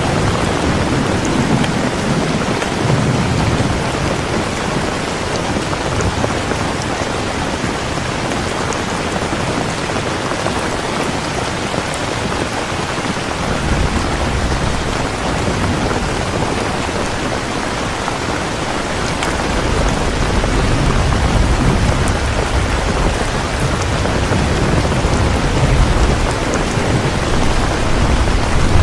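Heavy rain falling in a steady hiss, with thunder rolling in low rumbles near the start, again around the middle, and through most of the last third.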